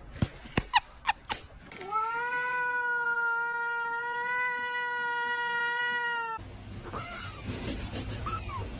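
A few sharp clicks, then a cat's single long meow, held at an even pitch for about four seconds before cutting off.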